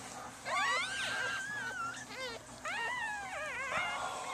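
Newborn puppies crying in a string of high-pitched, wavering squeals: one long cry about half a second in, a few quick short ones, then more wavering cries. They are being handled away from their mother.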